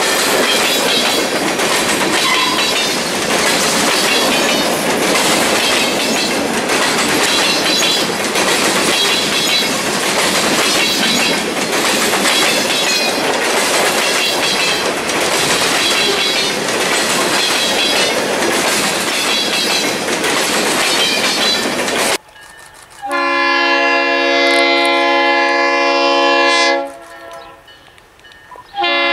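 Covered hopper cars of a freight train rolling close by, their steel wheels clattering rhythmically over the rails. About 22 seconds in the sound cuts off abruptly. A diesel locomotive's air horn then gives one long blast of about four seconds, and a second blast begins at the very end.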